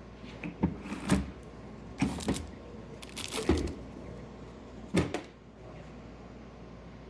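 Irregular metallic clanks and knocks, about seven in the first five seconds, from hand tools and steel parts being handled during work on a truck's steering and suspension.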